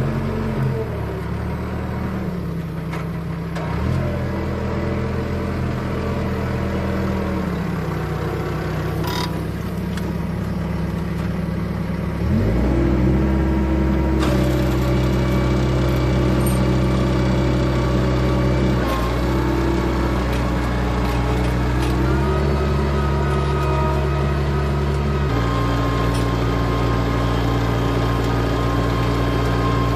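A4800 tractor's engine running while disk ploughing, its speed changing in steps. The note drops around 8 seconds in, then rises sharply and gets louder around 12 seconds in, and holds higher, with smaller shifts later on.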